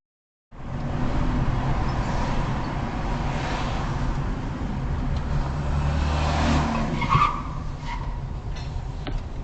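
A car driving, with engine and road noise heard from inside the car. The noise swells for a few seconds, and a short, sharper sound comes about seven seconds in.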